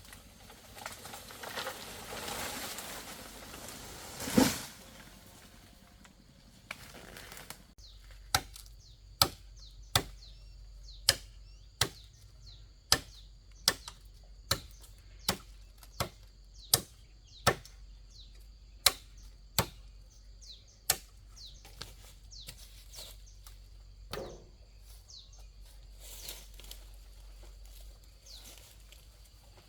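A run of sharp, evenly spaced knocks, roughly one a second, coming after several seconds of rustling and one louder thump.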